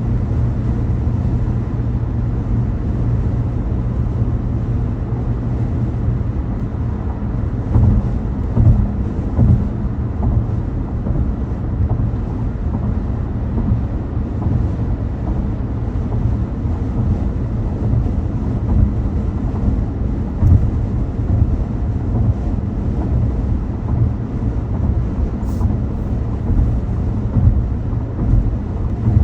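A car driving with a steady low road-and-engine rumble, and a few short bumps over the road surface.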